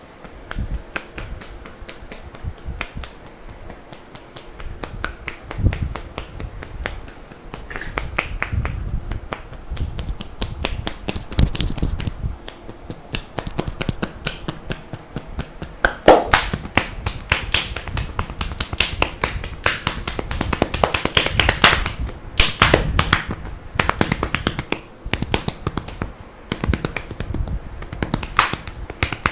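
Hands striking bare skin on the neck and shoulders in a strong percussive massage: a fast, uneven run of sharp slaps and chops, several a second, louder from about halfway through.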